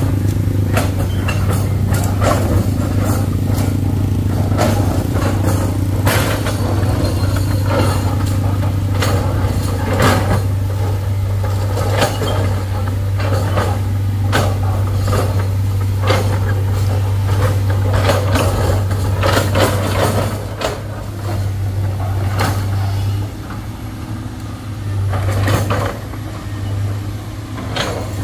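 A heavy diesel engine running with a steady low drone, with frequent knocks and clanks over it; it eases off about twenty seconds in.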